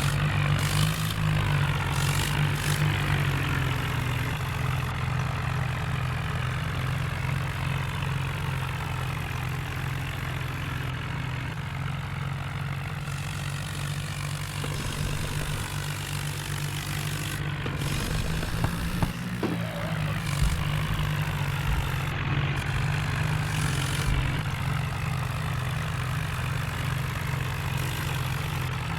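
Heavy diesel engine running steadily with a low hum, with a couple of short knocks about two-thirds of the way through.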